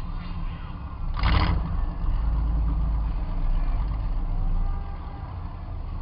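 Demolition derby car's engine running, heard from inside the car, with a brief loud noisy burst about a second in. The engine pulls harder for a couple of seconds after the burst.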